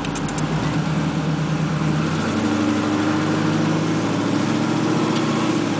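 LS6 V8 with Dynatech headers and a 2.5-inch Flowmaster exhaust, running as the 1968 Camaro SS convertible drives, heard from inside the open car. The engine note steps up in pitch about two seconds in, then holds steady.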